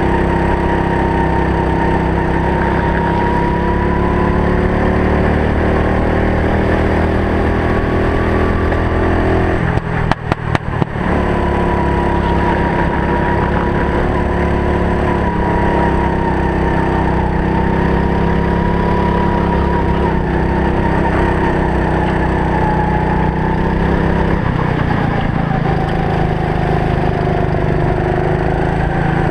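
Go-kart engine running under race load, its pitch rising and falling gently as the kart is driven round the circuit. The engine sound cuts out in a few short dropouts about ten seconds in.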